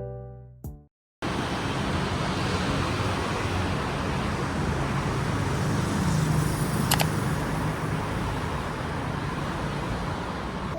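Steady road traffic noise, an even hiss and low rumble of passing cars, with one short sharp click about seven seconds in. A piano-like music phrase dies away in the first second before it.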